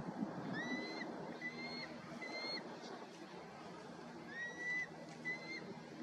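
A bird calling: a series of short whistled notes, each rising sharply then held briefly, three in a row and then two more about four seconds in. Under them runs a steady low hum and rumble.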